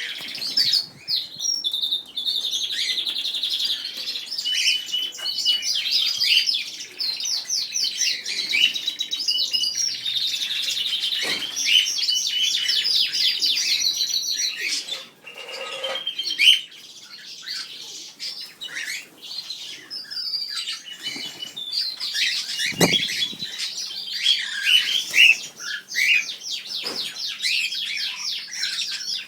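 A mixed flock of aviary birds, canaries and cockatiels, chirping and singing together in a dense, continuous chorus of fast trills and high chirps, with wings flapping now and then and a brief thud about two thirds of the way through.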